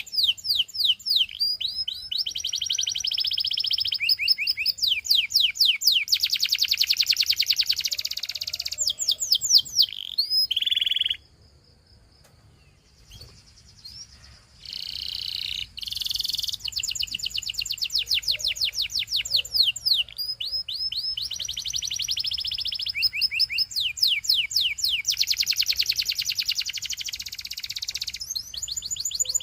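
A canary singing: fast trills of repeated falling whistled notes and buzzy rolled passages. It breaks off about eleven seconds in and starts again a few seconds later.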